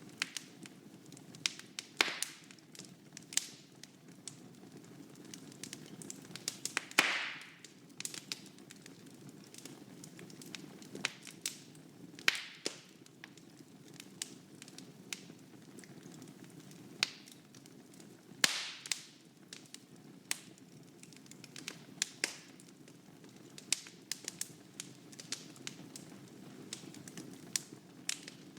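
Wood fire burning in a fireplace: a steady low rumble of flame with irregular sharp crackles and pops. A handful of louder pops are spread through, one of them followed by a short hiss.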